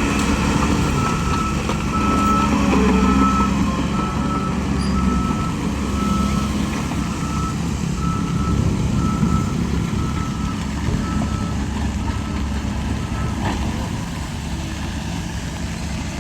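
A heavy vehicle's reversing alarm beeping about twice a second over the steady rumble of heavy diesel engines; the beeping stops a few seconds before the end.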